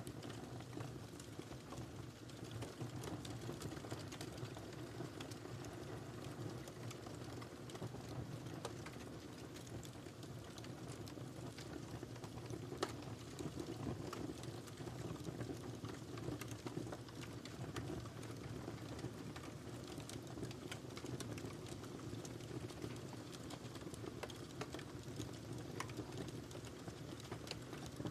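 Fireplace fire crackling: irregular sharp snaps scattered over a steady low rumble of the flames.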